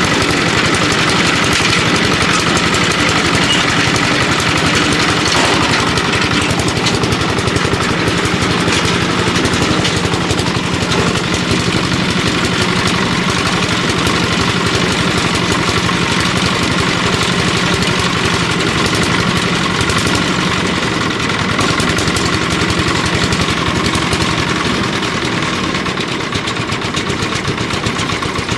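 An engine running steadily, with a continuous mechanical drone.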